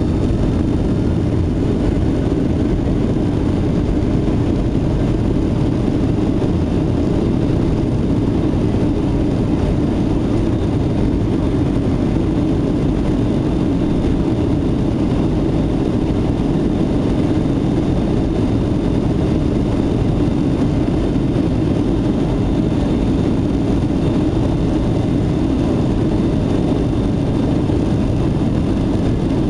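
Steady jet engine and airflow noise heard inside the cabin of a Boeing 757-200, loud and unchanging.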